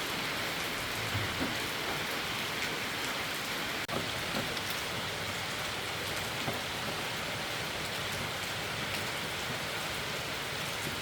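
Steady rain falling, with a brief click about four seconds in.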